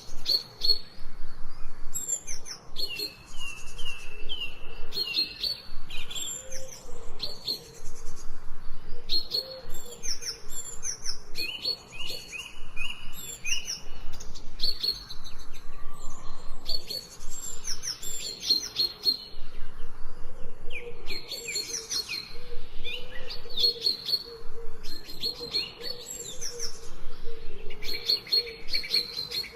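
Several songbirds singing at once: a dense, unbroken chorus of high chirps and quick runs of repeated whistled notes.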